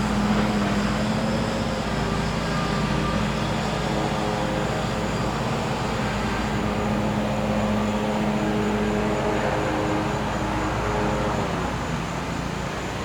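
Gas-powered generator engine running with a steady, noisy hum whose pitch shifts slightly, dropping a little in level near the end, with faint high insect tones above it.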